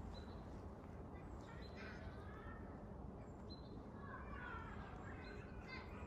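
Birds calling outdoors: a few short calls about two seconds in, then a busier run of chirps and gliding calls from about four seconds on, over a steady low rumble.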